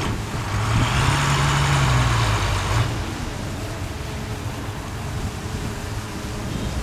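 Heavy diesel engine of a construction machine running. It works harder and louder for about two seconds near the start, with a rushing hiss over it, then settles to a steadier run.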